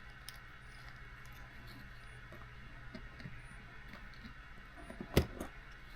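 Faint clicks and ticks of small RC car parts being handled on a workbench, with one sharp click about five seconds in, over a steady low hum.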